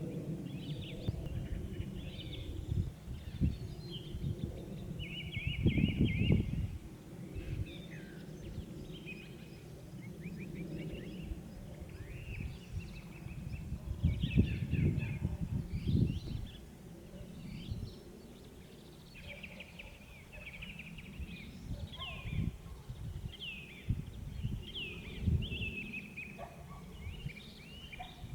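Several small birds singing and calling in short chirps and trills over a low rumble that swells about six seconds in and again around fifteen seconds.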